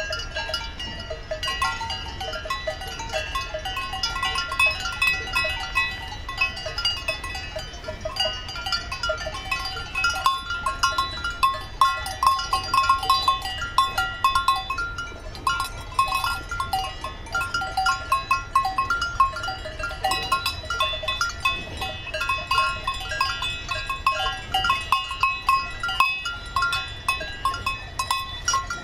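Many cowbells on grazing cattle clanking irregularly, a continuous jangle of short metallic rings that grows busier about ten seconds in.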